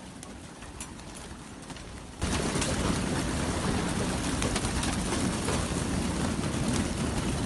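A flock of pigeons cooing, with many scattered short clicks. About two seconds in, the sound jumps suddenly much louder and busier.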